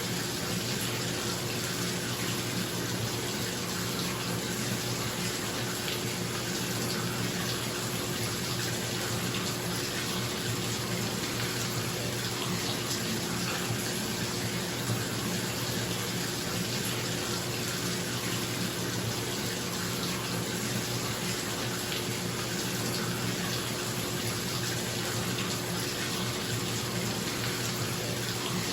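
Bathtub tap running steadily into the tub, an even rushing of water, with the steady hum of a bathroom exhaust fan underneath.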